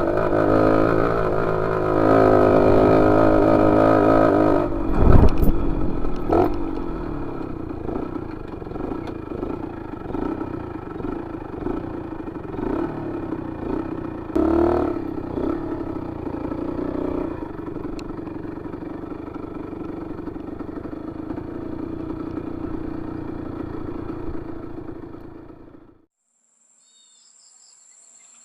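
Motorcycle engine running, loudest in the first few seconds and then a steadier drone with a few knocks. It cuts off abruptly near the end, leaving faint high insect chirping.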